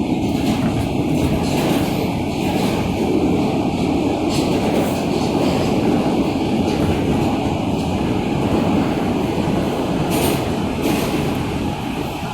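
R160A subway car running through the tunnel, heard from inside the car: a steady, loud rumble of wheels on rail and motors, with brief high-pitched hissing or screeching about ten seconds in. It gets a little quieter near the end.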